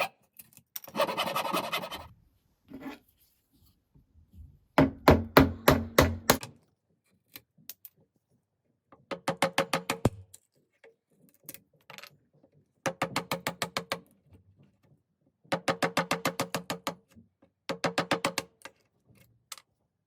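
Hand rasp working a wooden hatchet handle: strokes of about a second, each a quick run of ticks. About five seconds in there is a run of six or seven loud knocks on wood.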